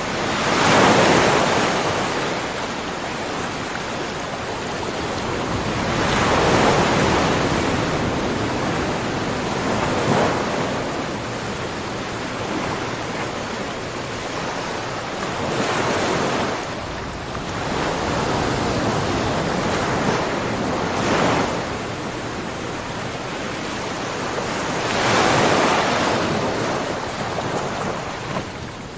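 Ocean waves breaking on a shore: a steady wash of surf that swells into a louder breaking wave every four to six seconds, six times.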